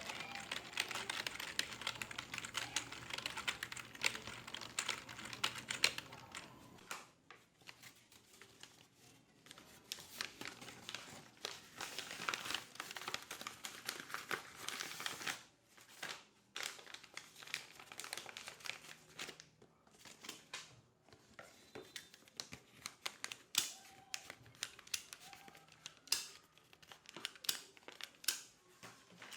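Office work sounds: dense, rapid clicking of keyboard typing for the first seven seconds or so, then sparser bursts of clicks and scattered single clicks with some rustling.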